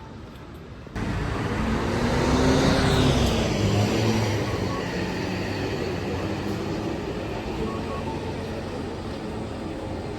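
A vehicle passes close by, starting suddenly about a second in. Its pitch falls as it goes past, and a steady rushing noise follows.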